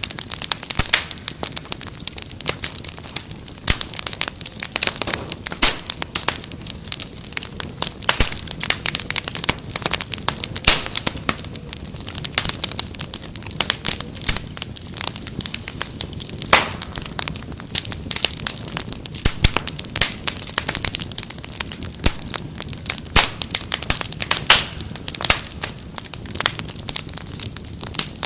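Wood fire crackling in a fireplace: many irregular sharp pops and snaps over a steady soft hiss.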